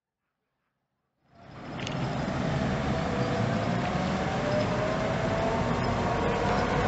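Silence, then from about a second in a vintage car's engine running as the car pulls away from the start line, a low rumble with a thin steady whine over it.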